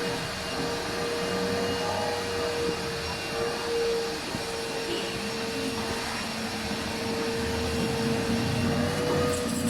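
A motor running steadily: a constant hum over an even rushing hiss.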